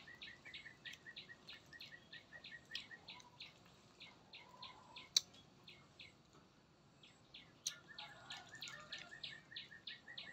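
A small bird calling in a fast, even series of short high chirps, about four a second, with a short break a little past halfway. A sharp click about five seconds in.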